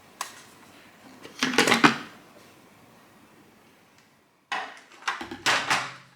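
Hard plastic knocks and clicks as the cordless stick vacuum is handled and seated onto its wall-mounted charging holder: a single click, then a cluster of clacks, a pause, and another cluster of clacks near the end.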